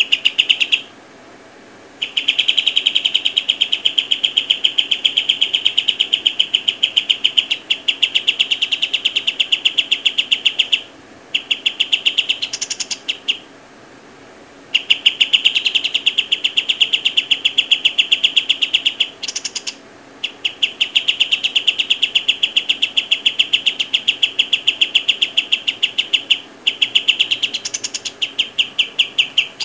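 High chirps at one pitch, repeated fast, about nine a second, in long runs of several seconds broken by short pauses.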